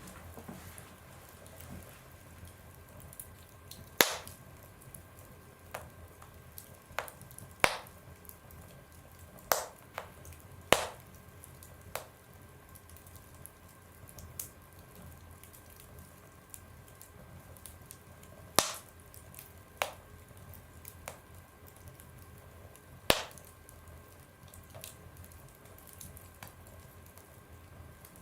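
Wood fire burning in a stove, with irregular sharp pops and cracks, about a dozen, one to several seconds apart, over a faint steady hum.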